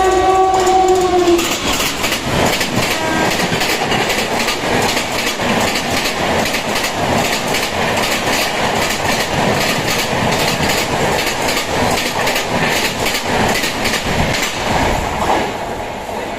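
Express train passing at speed. A two-tone horn sounds for the first second and a half, then a fast, continuous clatter of wheels over rail joints as the coaches rush past, easing slightly near the end.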